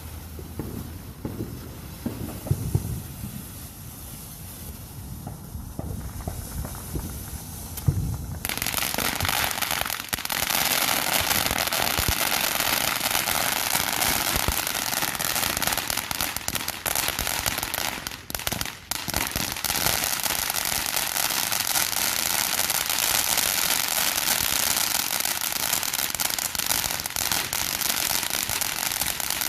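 Fireworks: a few low booms in the first seconds, then about eight seconds in a dense, rapid crackling like a long string of firecrackers starts and keeps going, with a brief lull partway through.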